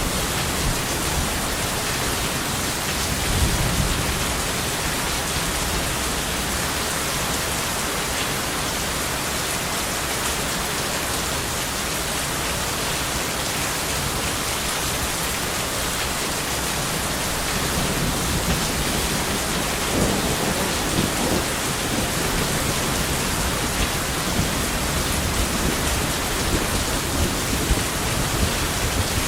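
Steady heavy rain with rolling thunder: low rumbles swell about three seconds in and again past the middle.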